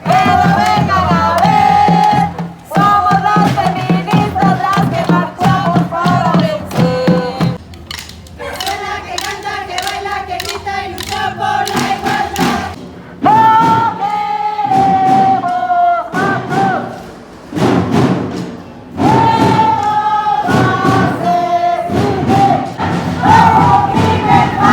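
A crowd of women singing and chanting protest slogans in unison, with a steady thumping beat under the first part. It comes in several short clips that cut abruptly from one to the next.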